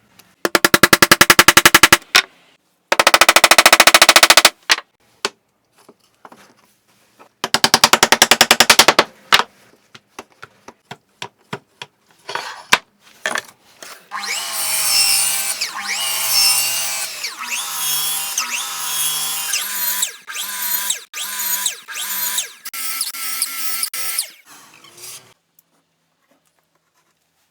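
Power-tool woodworking. Three bursts of a tool running with a rapid, even pulsing come first, then a string of separate knocks, then a longer stretch of a tool running with a shifting pitch.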